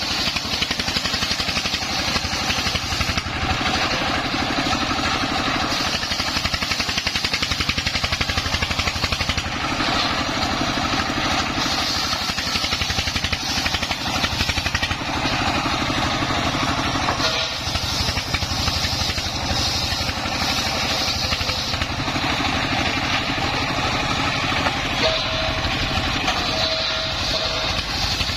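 Dongfeng 24 hp single-cylinder diesel engine running steadily under load, driving a homemade circular saw through timber. A higher rasping saw sound swells and fades over several seconds at a time above the engine.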